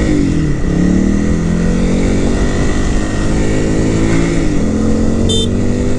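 Honda CRF300L single-cylinder engine running under way, its pitch dipping and climbing again just after the start and once more about four and a half seconds in as the throttle changes, over a low wind rumble. A brief high tone sounds about five seconds in.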